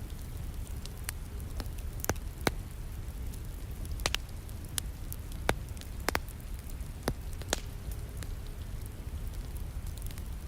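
Wood fire in a fireplace crackling, with irregular sharp pops and snaps, several louder ones spread through, over a steady background of rain.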